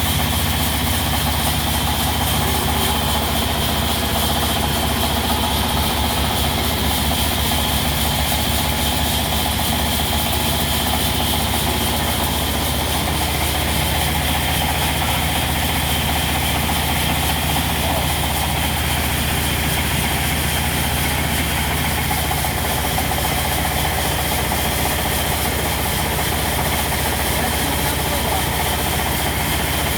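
Diesel engine driving a sawmill, running at a steady, even speed with a constant high whine above its low hum.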